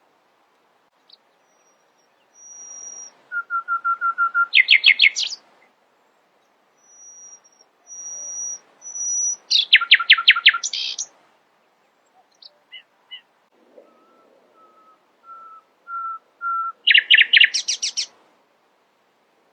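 Nightingale singing in three phrases. Each phrase opens with long, thin whistled notes and breaks into a loud, fast run of repeated notes.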